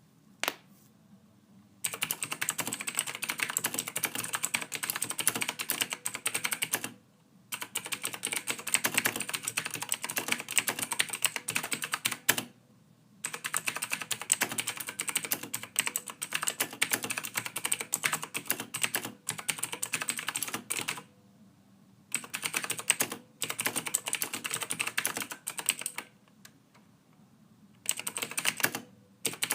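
Computer keyboard being typed on in fast, steady runs of key clicks, broken by a few pauses of about a second between bursts.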